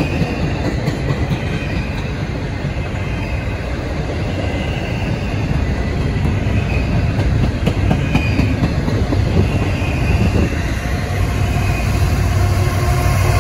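Double-stack intermodal freight cars rolling past, steel wheels rumbling and clicking over the rail joints. About ten seconds in, the steady hum of the mid-train DPU diesel-electric locomotive's engine comes in and grows louder as it approaches.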